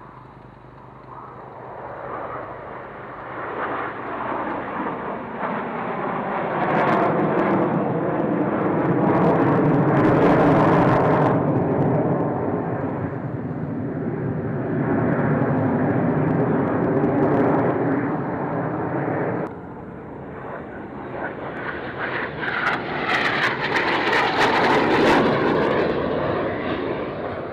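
Fixed-wing aircraft engine noise that builds as the aircraft comes closer and is loudest around the middle. It drops suddenly about two-thirds of the way in, then rises again to a second peak near the end.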